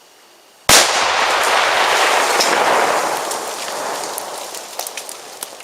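A homemade flash powder bomb exploding: one sudden, very loud blast under a second in, followed by a long rushing noise that fades over about four seconds, with scattered small ticks near the end.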